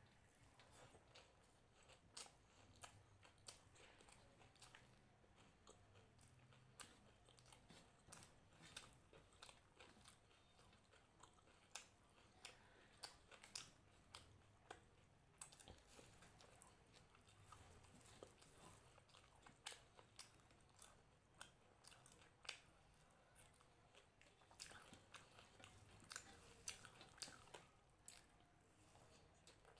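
Faint close-up chewing of crunchy food: a long run of quick, irregular crisp crunches and mouth clicks, some sharper than others.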